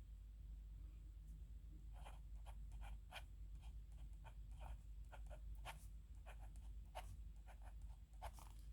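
Nib pen scratching on paper in a run of short, quick strokes, faint for the first two seconds, then more frequent and distinct.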